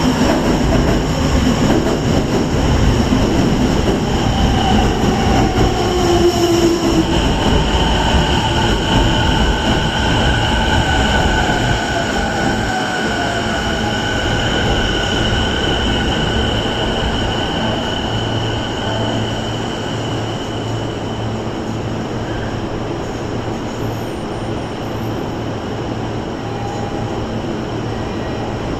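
Keio 10300 series electric train pulling in and braking to a stop: loud running noise that eases off as it slows, with a long high-pitched squeal and a whine falling in pitch, then a steady low hum from the standing train near the end.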